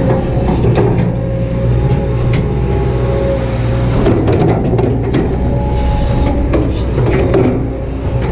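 Kobelco SK200-8 excavator's diesel engine running steadily under load, with a steady hydraulic whine and scattered clicks and knocks from the working machine.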